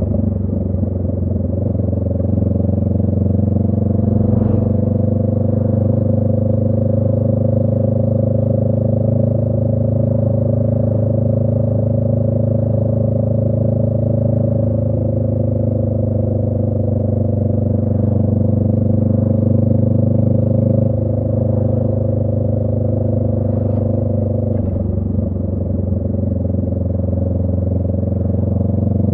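2018 Honda Rebel 500's parallel-twin engine running through a Radiant Cycles Shorty GP aftermarket exhaust at a steady cruise. The pitch holds nearly level, eases off a little late on and picks up again at the end.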